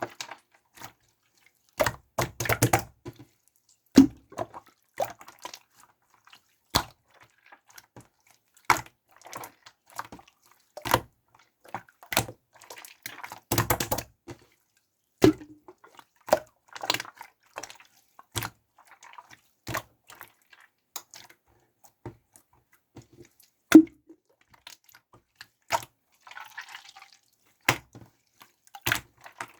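Clear pink slime being worked by hand, giving irregular sticky pops and squelches, with a few quick clusters of crackling.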